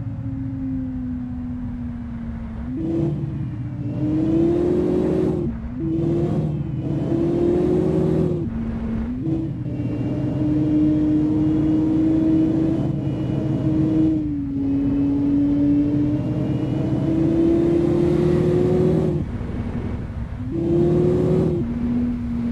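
Loaded truck's engine labouring and revving, its pitch climbing and dropping several times as it pulls through the mud.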